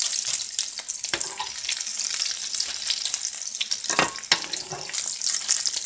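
Cauliflower florets frying in hot oil in a nonstick pan, a steady crackling sizzle. A few sharp clicks of metal tongs against the pan as pieces are turned and lifted out.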